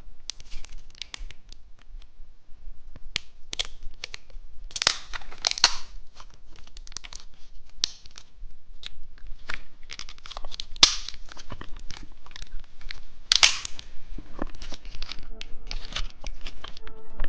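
Plastic candy wrapper crinkling and tearing as a small gummy candy is unwrapped: a run of sharp crackles and rustles, with louder bursts near the middle and about three quarters of the way through.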